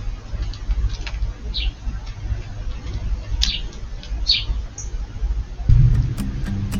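A few short, high bird chirps, spaced a second or more apart, over a steady low rumble. Music comes in near the end.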